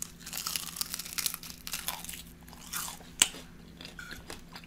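Close-miked crunching and chewing of a bite of oven-fried chicken wing. A single sharp click comes about three seconds in.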